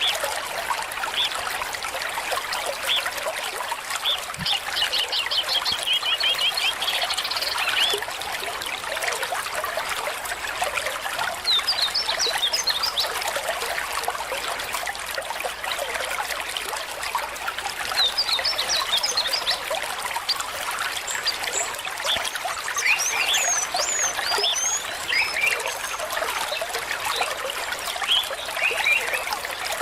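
Stream water running steadily. Birds chirp over it now and then: a rapid trill a few seconds in, then short high chirps in scattered bursts through the rest.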